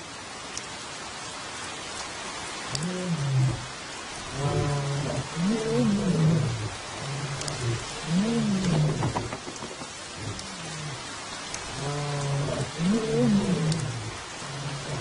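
Steady rain falling, with a large animal's low calls repeating about every second or two from about three seconds in, each rising and falling in pitch.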